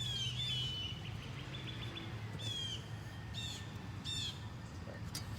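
Small birds chirping: a quick run of short high notes, then three down-slurred calls about a second apart, over a steady low hum.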